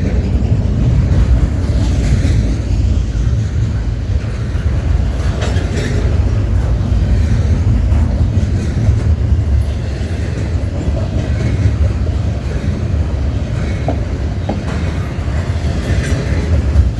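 A long freight train's cars rolling steadily past: a loud, low, even rumble with occasional wheel clicks over the rail joints.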